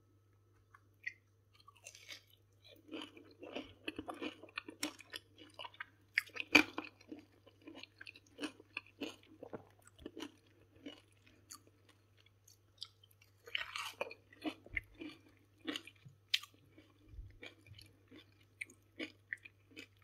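Close-up chewing of a fried meatball with a crunchy crushed pork-rind (chicharon) coating: irregular crunching bites and chews, with a pause of about two seconds midway.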